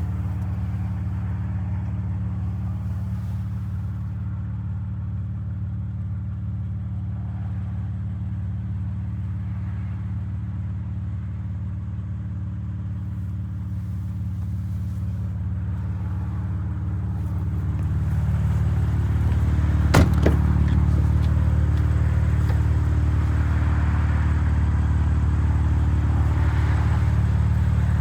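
BMW M3 Competition's 3.0-litre twin-turbo inline-six running steadily at a constant low note. It gets louder about two thirds of the way through, just before a single sharp click.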